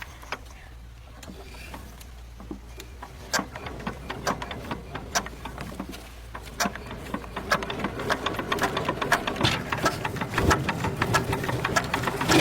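Irregular mechanical clattering and knocking over a low engine hum, growing denser and louder about halfway through: a farm vehicle carrying a tractor, rattling as it drives.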